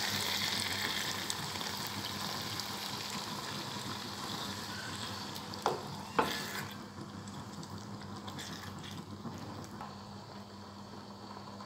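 Minced meat and potato curry sizzling in a wok just after water is poured in, stirred with a silicone spatula. Two sharp knocks of the spatula against the pan come about six seconds in, and after them the sizzle fades as the added water settles toward a simmer.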